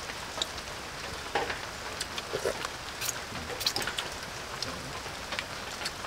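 Rain falling steadily: an even hiss with scattered small drips, clicks and taps.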